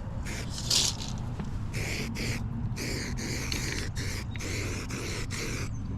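A run of short hissing bursts, about two a second from a second or so in, over the steady low hum of an idling machine.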